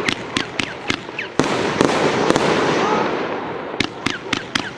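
A 36-shot fan-shaped firework battery (cake) firing: a rapid series of sharp bangs and cracks from the shots and breaking shells, over a continuous crackling hiss.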